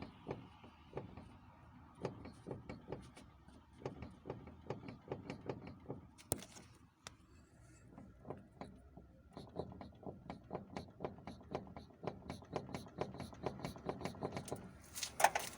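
Repeated short knocks from the front steering of a ZAZ Tavria as the steering is worked back and forth, about two to four a second with a brief lull partway through. The knock comes from play at a loosened bolt in the steering linkage, which had been blamed on a worn steering rack.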